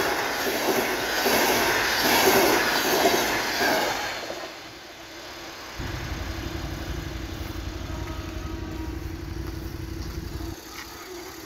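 Passenger coaches rolling past close by, their wheels clattering rhythmically over the rails, loud for about four seconds and then fading away. About six seconds in a steady low rumble starts suddenly and stops just before the end.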